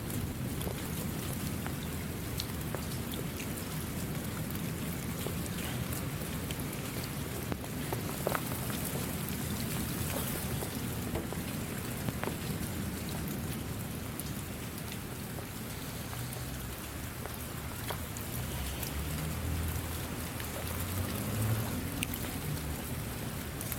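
Steady rain falling, with many small, sharp drop hits over an even hiss and a low rumble underneath that grows a little near the end.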